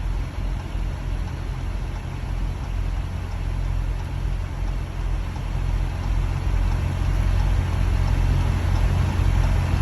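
Motor vehicle running: a steady low engine drone with an even hiss of road and wind noise.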